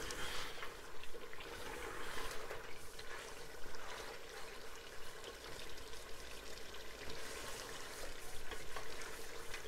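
Mutton korma sizzling in oil in an aluminium pot as it is stirred and fried with a spoon, the bhuna stage where the cooked meat is fried together with crushed browned onions.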